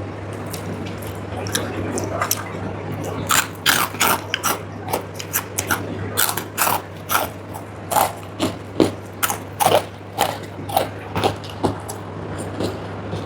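Close-up chewing of crunchy food: a run of sharp crunches, about two a second, starting a few seconds in, over a steady low hum.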